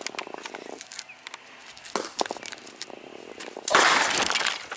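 Punctured, overheated lithium-ion phone battery crackling, then bursting with a loud hiss lasting under a second near the end: the battery going into thermal runaway and venting after a bocce-ball hit.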